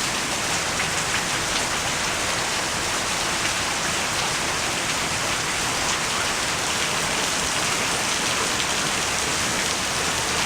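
Steady rain falling, pattering on surfaces close by.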